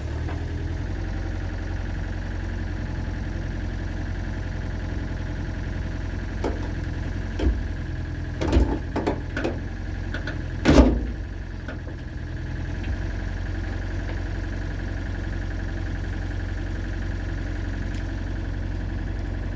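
Excavator engine idling steadily while a chain pulls on a bolt set into a dent in an old pickup's sheet-metal body. About halfway through comes a cluster of sharp cracks and pops, the loudest last: the panel moving, the bolt bending and the wood block behind it splitting under the pull.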